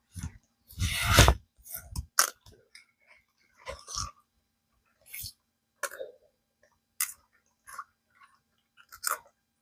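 Crisp snaps and rustles, irregular and spaced out, as collard green leaves are picked off the plants; the loudest comes about a second in.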